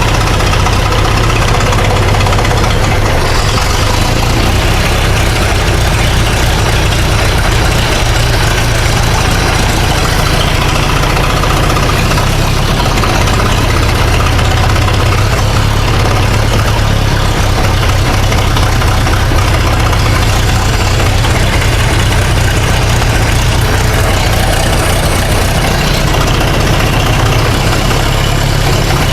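Massey Ferguson 65 tractor's gasoline engine idling steadily. The owners think it doesn't sound right and suspect a carburetor that is still partly clogged.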